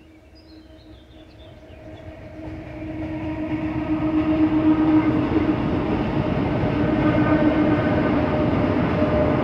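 EU07 electric locomotive hauling a container freight train, approaching and passing over a bridge. The sound grows louder over the first four or five seconds and then holds as a steady rumble with a constant hum. A few bird chirps are heard at the very start.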